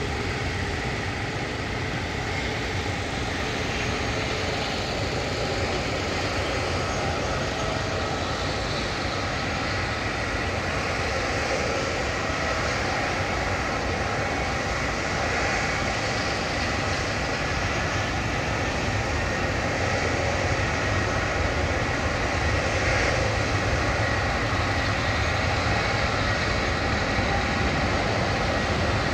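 Jet airliner engines running steadily as planes queue for takeoff: a continuous rush with a faint high whine, slowly growing louder.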